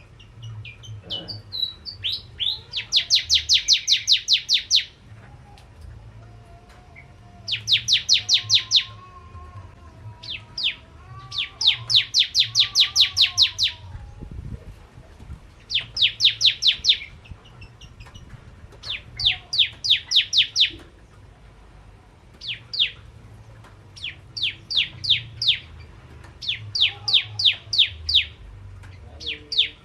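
Bar-winged prinia (prenjak jawa) calling in repeated bursts of sharp, high, metallic chips, about seven notes a second. Each burst lasts one to two seconds, with short pauses between. Fainter, lower whistled notes sound underneath at times.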